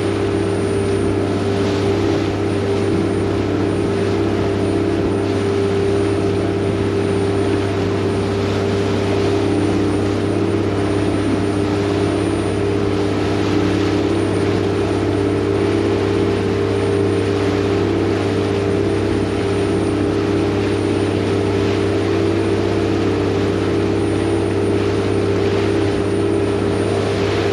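Vaporetto water bus's diesel engine running steadily underway: a constant drone with a deep hum and several held higher tones, over an even rush of noise.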